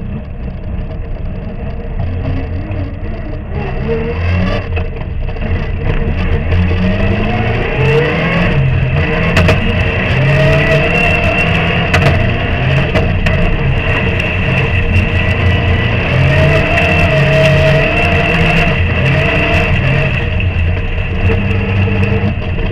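Rally car engine heard from inside the cockpit, pulling away from the start and accelerating hard. Its revs climb and drop again and again with the gear changes, over a steady high whine and a few sharp knocks.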